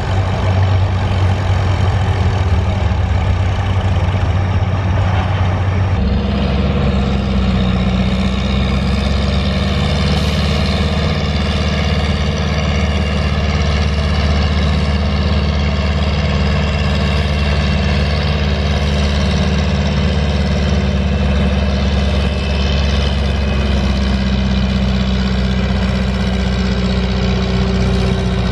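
Antique farm tractor engine running steadily, its note changing about six seconds in.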